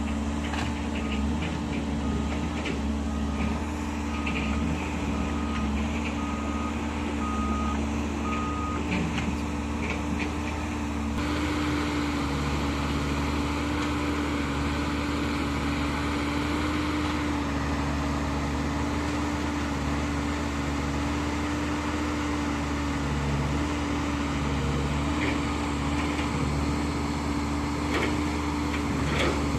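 Heavy diesel earthmoving machinery running steadily, with a reversing alarm beeping about once a second, some eight beeps, during the first nine seconds. The engine sound changes abruptly about eleven seconds in and runs on steadily.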